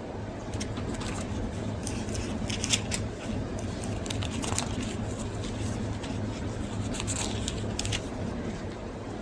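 Paper pages of Bibles rustling and flicking as they are leafed through to find a passage, in short scattered crackles over a steady low room hum.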